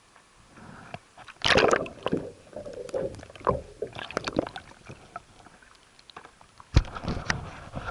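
Irregular splashing and sloshing of water with a few sharp knocks; the loudest splash comes about a second and a half in, and a sharp knock comes near the end.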